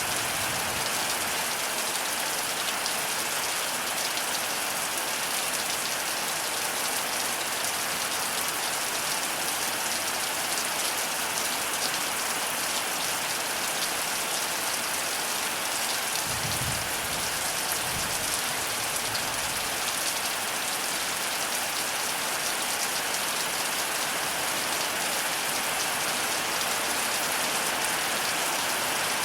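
Heavy rain pouring steadily, a dense even hiss of drops on surfaces, with two brief low rumbles a little past halfway.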